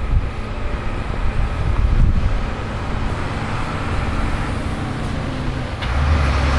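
Motor vehicle engine and traffic noise, steady and rumbling; about six seconds in a louder, low engine drone sets in, as of a vehicle idling close by.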